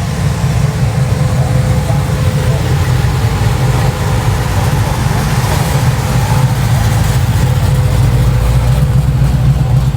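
Car engine running slowly, a steady low drone with a faint steady whine above it.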